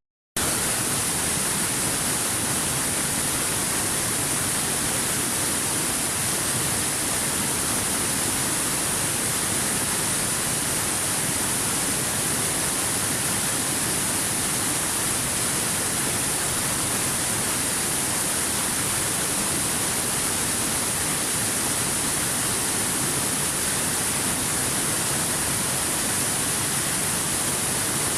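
Waterfall: a steady, unbroken rush of falling water, with a split-second gap of silence right at the start.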